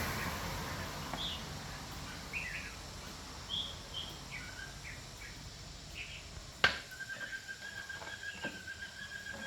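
Birds chirping in short scattered calls. Near the end there is a sharp click, followed by a steady high-pitched whine.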